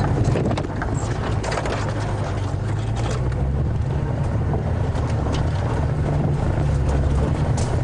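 Safari game-drive vehicle's engine running low and steady as it drives off-road through bush, with scattered light knocks and crackles over it.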